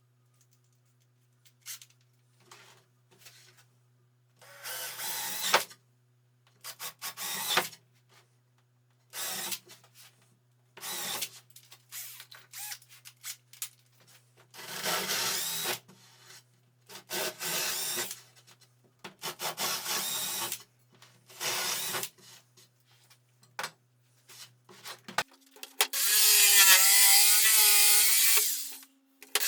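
Power tool working birch plywood in repeated short bursts of about a second each. Near the end comes a longer, louder run with a wavering motor pitch.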